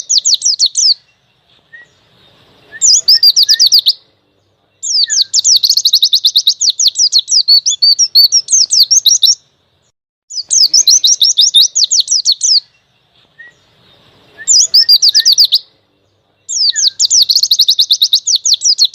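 White-eye (pleci) singing in loud phrases of rapid, high trilled notes, each phrase one to four seconds long with short pauses between, and a few soft chips in the pauses. This is the forceful, full 'ngalas' song used as a tutor recording for young birds.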